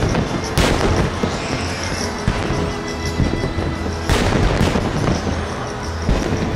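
Fireworks bursting over music: a boom about half a second in, then two more close together around four seconds in, each trailing off in a rumble.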